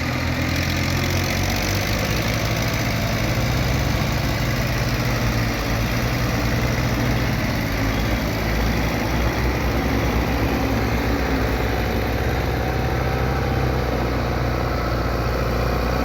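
Belarus tractor's diesel engine running steadily, a low even engine note.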